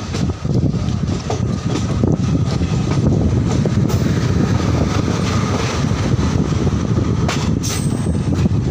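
Passenger train running, heard from its open door or window: a steady rumble of wheels on rail with clicks from the track, and wind rushing over the microphone, briefly stronger near the end.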